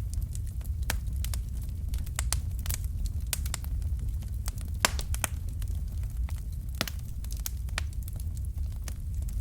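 Wood fire burning with a steady low rumble and irregular sharp crackles and pops, several a second, one louder pop about five seconds in.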